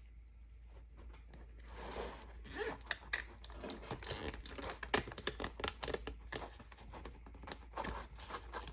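Nylon zip tie being pulled tight, its teeth clicking through the lock in a quick, irregular run of small clicks with some handling rustle, starting about two seconds in.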